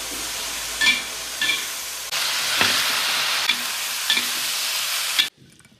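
Shredded ostrich meat sizzling as it is stir-fried, with a spatula knocking and scraping against the pan every second or so. The sizzle gets louder about two seconds in and cuts off suddenly near the end.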